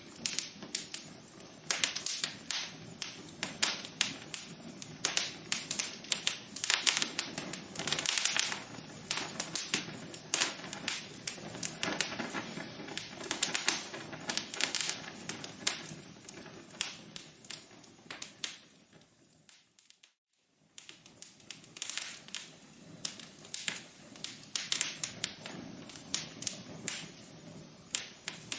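Fireplace fire crackling: many irregular pops and snaps over a soft hiss. About two-thirds through it fades to a second of near silence, then the crackling resumes.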